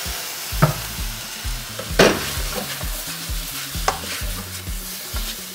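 Crumbled raw sausage meat sizzling in a frying pan, with soy sauce just added, while a spatula stirs and scrapes it. Three sharper knocks of the spatula against the pan, the loudest about two seconds in.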